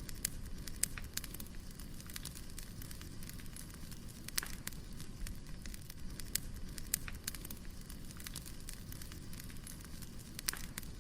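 Wood fire crackling: irregular sharp pops and snaps over a low steady rumble of burning logs, with a louder pop about four and a half seconds in and another near the end.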